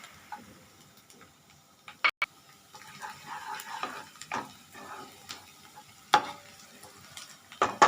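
Chopped ginger and garlic sizzling faintly in hot oil as a spoon stirs them in a frying pot, with several sharp knocks of the spoon against the pot.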